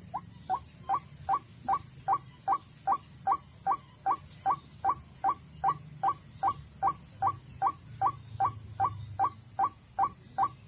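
White-breasted waterhen calling: a short, pitched note repeated evenly about two and a half times a second. A steady high insect drone runs behind it.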